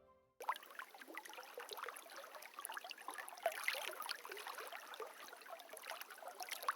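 Faint shallow river water trickling and babbling over rocks, with many small splashes.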